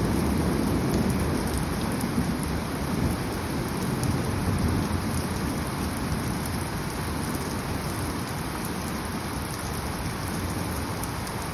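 Steady rain falling while a long roll of thunder rumbles low and slowly dies away.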